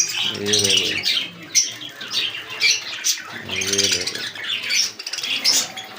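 A flock of parrots squawking and screeching in harsh, overlapping calls. A lower, drawn-out call sounds three times, about three seconds apart.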